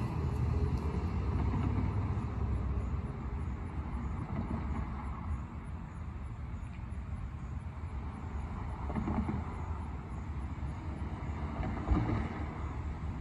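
CSX train running by: a steady low rumble of railcars on the track, easing a little through the middle, with a sharp knock near the end.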